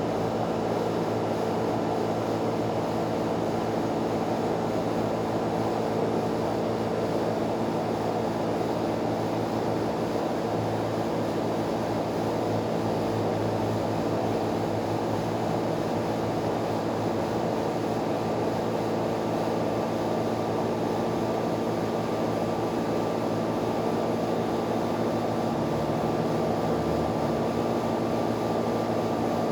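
A steady mechanical drone: an even rushing noise with a constant hum of several steady tones, holding at one level throughout.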